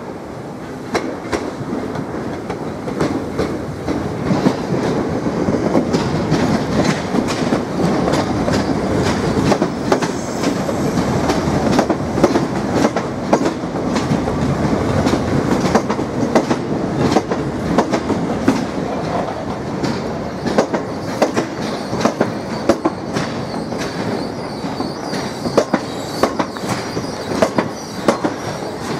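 Southeastern Electrostar electric multiple-unit trains running through the station throat, a steady rumble with wheels clicking rapidly over rail joints and pointwork.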